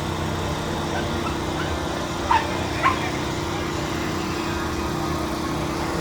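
A dog barking twice, two short sharp barks about half a second apart, over a steady background hum.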